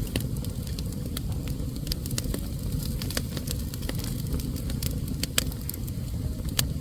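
Fire burning in a fireplace, crackling with irregular sharp pops over a steady low rumble of flames.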